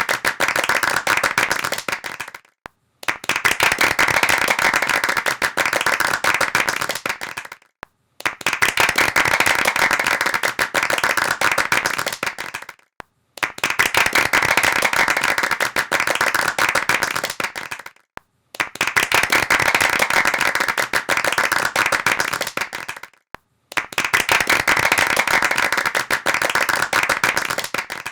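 Hands clapping rapidly and densely, like applause, in takes of about five seconds. Each take tapers off into a brief silence before the next begins, five times over.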